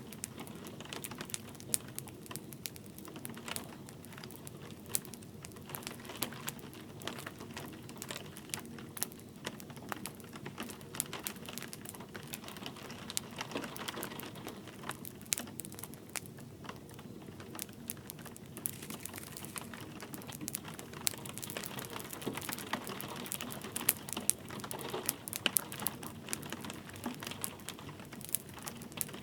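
Wood fire crackling and popping in a fireplace, with irregular sharp snaps over a steady soft hiss of light rain.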